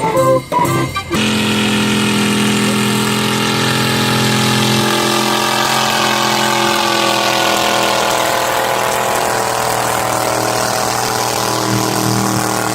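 An engine or machine running steadily with a low hum, while a higher whine slowly falls in pitch over several seconds.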